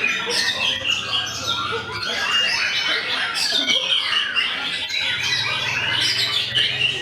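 White-rumped shamas (murai batu) singing in a dense chorus of overlapping rich whistles and quick downward-sweeping phrases, with a low steady hum in places.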